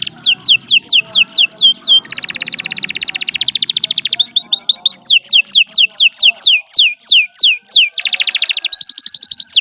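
Domestic canary singing a long unbroken song: runs of clear notes, each sweeping down in pitch, about four a second, broken twice by very fast rattling trills.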